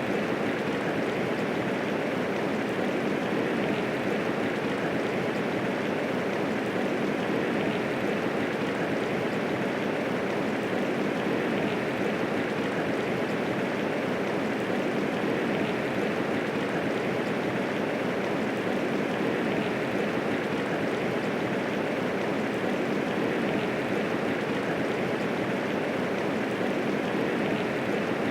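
Steady medium rainfall, an even dense patter with no thunder and no distinct single drops standing out.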